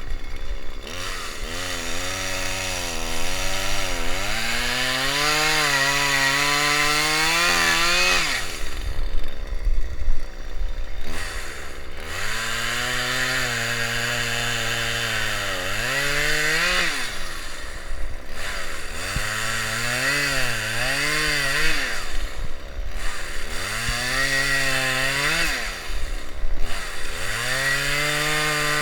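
Small petrol engine revving up, holding high revs for a few seconds and dropping back, over and over in five or so bursts with short dips between.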